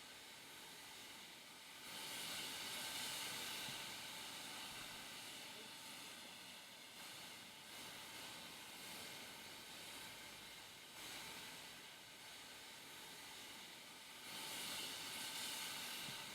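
Faint steady hiss of steam from a steam locomotive, swelling louder twice.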